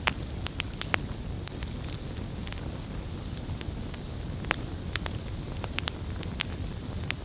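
Wood campfire burning and crackling: irregular sharp pops and snaps over a steady low rumble of the flames.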